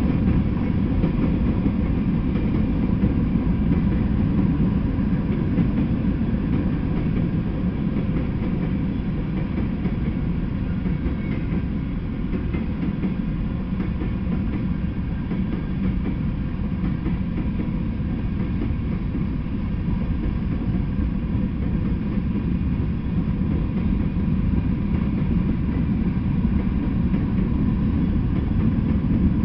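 Freight train's covered hopper cars and boxcars rolling past on the track: a steady low rumble of steel wheels on rail, without a break.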